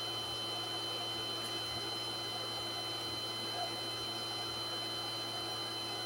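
Electric fan running steadily as background white noise: an even hiss over a constant low hum, with two faint high steady whines. A single faint soft knock sounds about three and a half seconds in.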